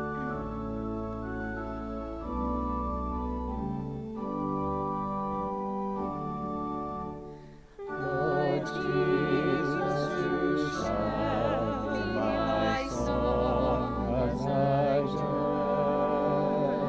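Organ playing sustained held chords over a low bass line; after a brief break about eight seconds in, singing with strong vibrato enters over the organ accompaniment.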